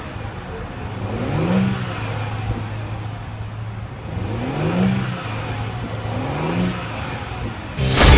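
2014 Audi Q7 3.0T's supercharged V6 idling with three short blips of the throttle, each a brief rise in engine pitch before it settles back to idle. Music starts suddenly just before the end.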